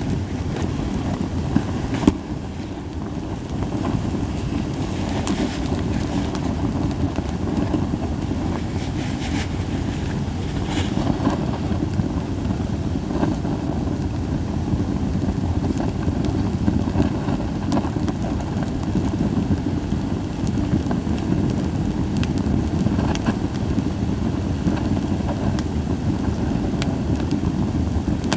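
Japanese white pine campfire burning with sporadic crackles and pops, a sharp pop about two seconds in, over a steady low rumble. It has little hissing.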